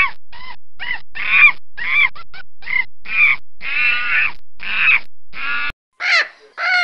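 A bird calling over and over, short harsh calls about two a second, which stop abruptly a little before 6 s. Near the end two different, brighter bird calls follow.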